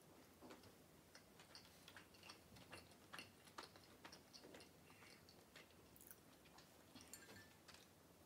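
Faint close-up chewing of a small canapé of yeast-free bread with goat cheese and chuka seaweed salad: soft irregular mouth clicks.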